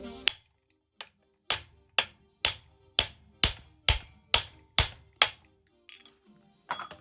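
About ten sharp, evenly paced hammer blows, roughly two a second, ringing metallically as they land on a seized Motobécane AV7 moped engine to free the stuck piston.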